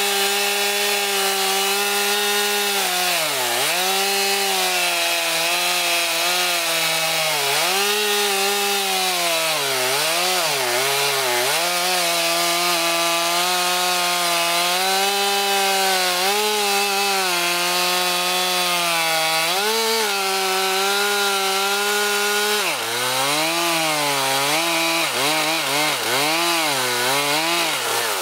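Two-stroke chainsaw running at high revs, cutting through a log. Its note dips and recovers several times, with a run of quick dips near the end.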